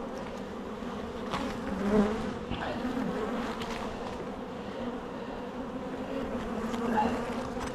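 Honeybees buzzing in large numbers around an opened hive: a steady hum that swells briefly about two seconds in.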